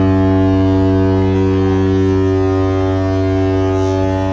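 Ship's horn sounding one long, loud, steady blast at a single low pitch.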